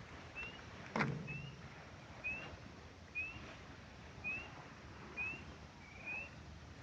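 A bird calling with one short, rising whistled note, repeated evenly about once a second. A single knock sounds about a second in.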